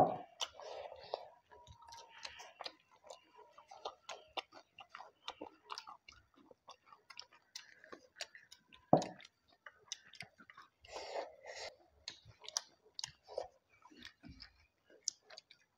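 Close mukbang eating sounds: wet chewing and lip smacks, a steady patter of small mouth clicks as rice, chicken and singju salad are eaten by hand. A sharp knock right at the start and another about nine seconds in stand out as the loudest sounds.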